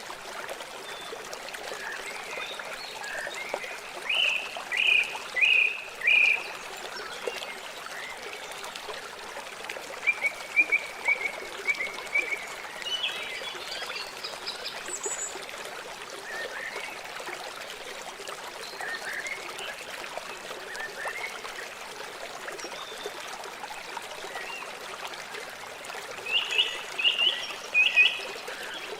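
River water flowing steadily, with an animal calling over it in short repeated notes, a few times, loudest around four seconds in and again near the end.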